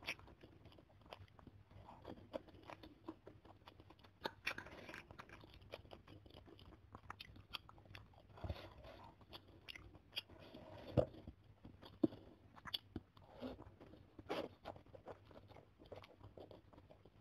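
Close-miked ASMR eating sounds: chewing and slurping of noodles and tofu meatballs in spicy broth, wet mouth noises with many short sharp clicks and a few louder slurps.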